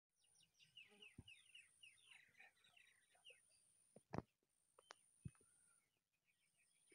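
Faint birdsong: a quick run of falling chirps over the first few seconds. A thin, steady high tone comes and goes throughout. A sharp knock about four seconds in is the loudest sound.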